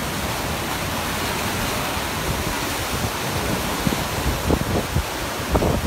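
Steady rush of storm-force wind and heavy surf, with gusts buffeting the microphone in low irregular thumps over the last two seconds.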